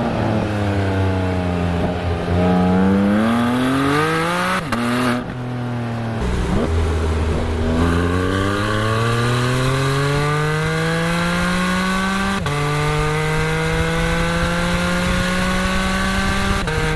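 Exhaust of a Porsche 718 Spyder's 4.0-litre flat-six, picked up by a microphone on the rear bumper. The engine note falls, then climbs steadily as the car pulls through the gears, dropping sharply at each quick PDK upshift: once about twelve seconds in and again near the end.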